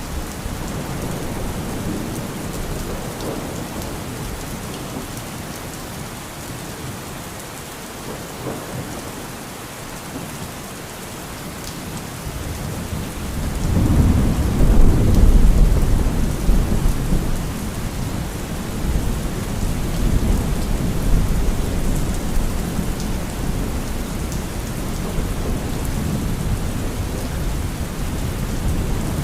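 Steady rain falling, with a long low roll of thunder that builds about halfway through, is loudest for a couple of seconds, then rumbles on more softly.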